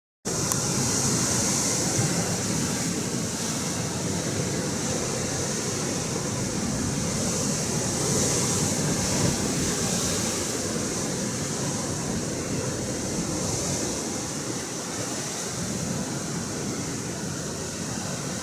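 Ocean surf washing against the shore: a steady rushing of sea water whose hiss swells and eases every few seconds.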